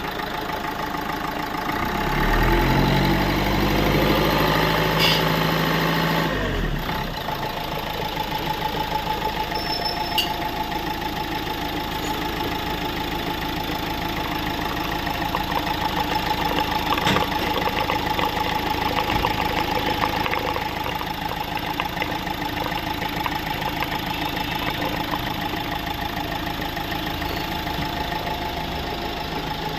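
Car engine running, louder for a few seconds near the start, then settling to a steady idle.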